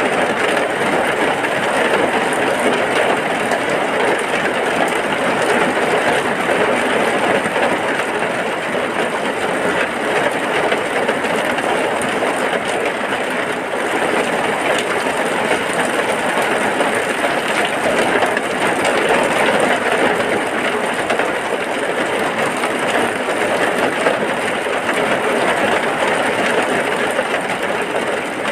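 Heavy rain falling steadily, a dense, even downpour.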